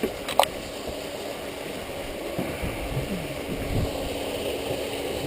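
Off-road vehicle's engine idling steadily, with a sharp click about half a second in.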